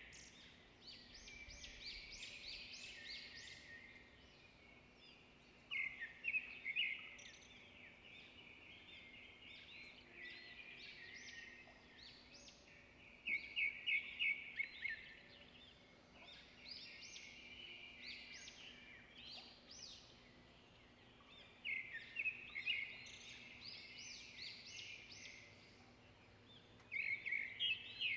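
Small songbirds chirping and twittering, with a loud flurry of rapid high notes about every seven seconds and softer twittering in between.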